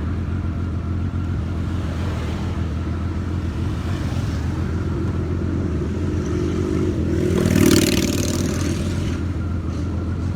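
Honda Valkyrie 1500cc motorcycle engine running steadily under way, with road and traffic noise around it. About seven seconds in, engine and rushing noise swell louder, peaking near eight seconds, then settle back.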